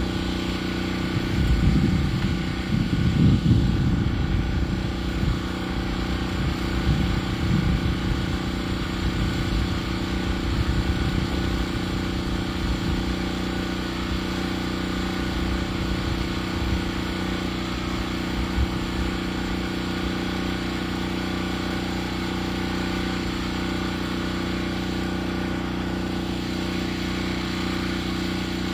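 An engine running steadily, with irregular louder low rumbling in the first dozen seconds.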